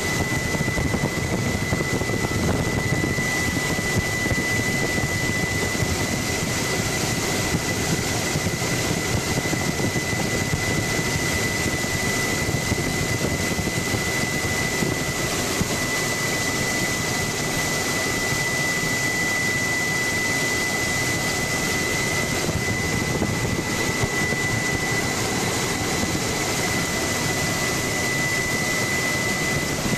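Helicopter in flight, heard from on board: a steady, loud engine and rotor noise with a constant high whine over it.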